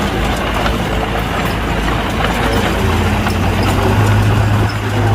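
Heavy machinery engine running, with light clattering. Its low engine note grows louder and steadier about three seconds in.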